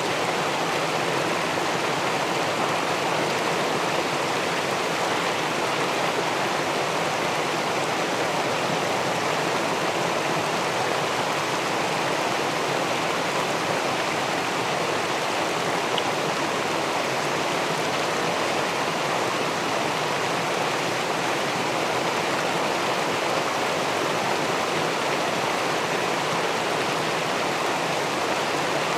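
River water rushing steadily below a weir, where the flow pours over the dam into the pool.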